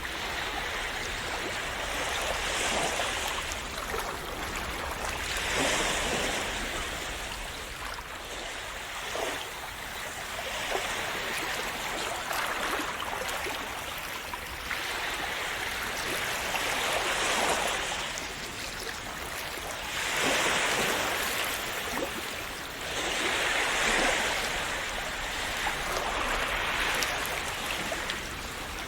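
Calm sea waves washing in and splashing, the wash swelling and easing every few seconds over a continuous hiss of moving water.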